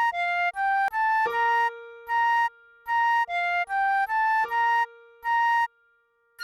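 Recorder melody played in short, separated notes: a high note repeated several times, broken twice by quick rising runs of four notes, over a held lower accompanying note. A fuller passage of music starts at the very end.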